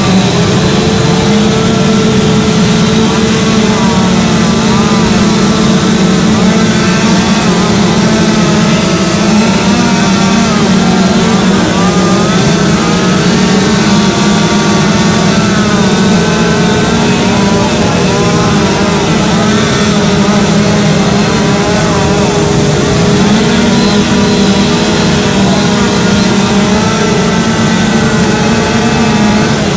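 Two-stroke chainsaw running loud and without a break as it carves wood, its engine pitch wavering up and down under load.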